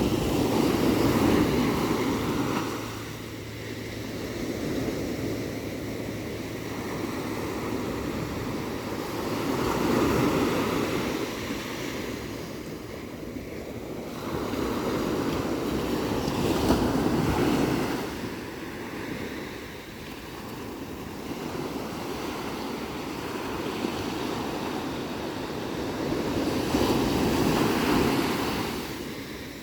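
Ocean surf: waves breaking and washing in, rising and falling in four slow surges several seconds apart.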